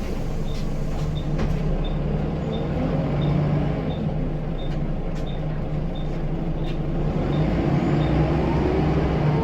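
Scania L94UB bus's nine-litre five-cylinder diesel running under way, heard from inside the Wright Solar body, with the engine note picking up slightly near the end. A short high tick repeats about every 0.7 seconds and stops shortly before the end.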